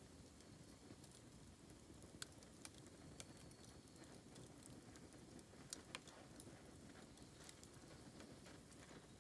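Bamboo bonfire crackling faintly over a low rumble, with scattered sharp pops, a few louder ones in the first third and around the middle.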